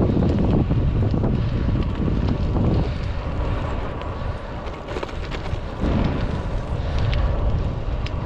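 Wind buffeting the microphone of a moving bike rider, a loud low rumble that eases off for a few seconds in the middle and then comes back.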